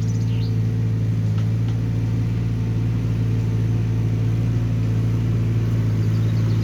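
Hyundai small excavator's diesel engine running at a steady speed, an even drone with no change in pitch.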